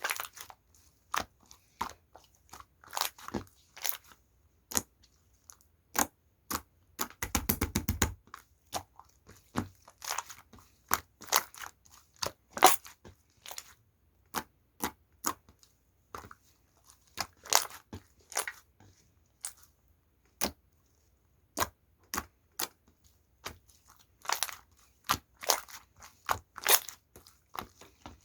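Yellow slime being squeezed and pressed by hand, giving off irregular sharp pops and clicks, with a quick run of crackling about seven seconds in.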